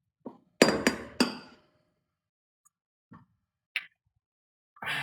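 Three sharp clinks with a short ring, close together under a second in, followed by a few faint clicks and taps.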